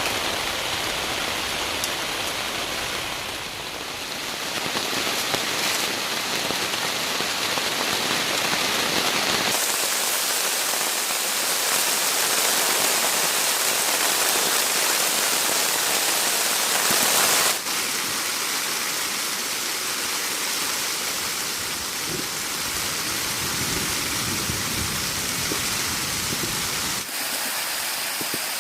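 Steady hiss of falling or running water, like rain, with no voices. It changes character abruptly three times, about ten, eighteen and twenty-seven seconds in.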